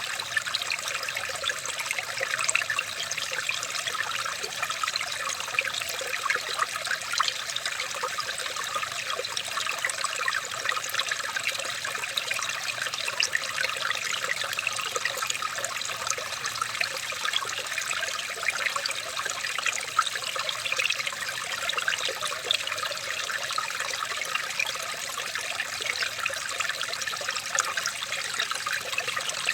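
Running water trickling and babbling steadily, a continuous fine splashing with no change in strength.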